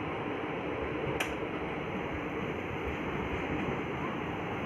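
Passenger train coach rolling out of a station at low speed: a steady rumble and rush of noise, with one sharp click about a second in.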